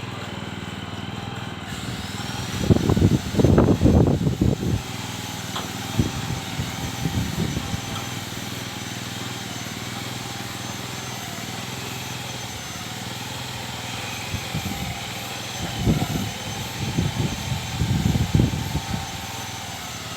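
A small engine running steadily, with louder rough spells a few seconds in and again near the end.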